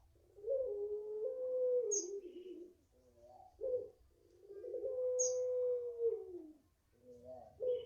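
A five-month-old puter pelung dove cooing its long call: two drawn-out coos of about two seconds each, linked by short clipped notes.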